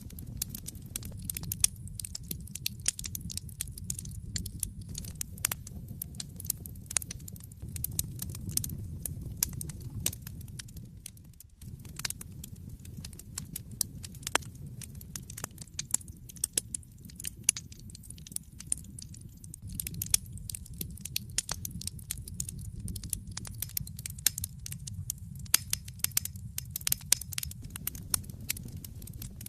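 Wood fire crackling in a fireplace: frequent sharp pops and snaps over a low steady rumble of the flames, which dips briefly about eleven seconds in.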